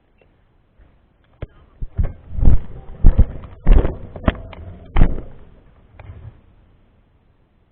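A string of irregular knocks and thumps, a dozen or so over about five seconds and loudest in the middle, against near silence.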